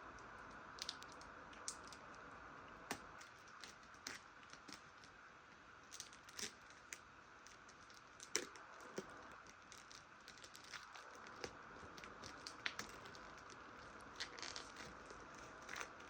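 Faint crinkling and tearing of plastic shrink-wrap being pulled off a sealed VHS cassette sleeve, in scattered sharp crackles and clicks over a steady faint hiss.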